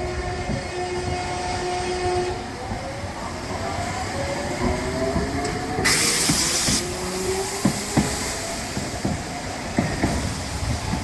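A rail vehicle moving at the station: a whine of several tones that holds and then shifts in pitch. A sharp burst of air hiss comes about six seconds in, and wheel clacks over rail joints follow.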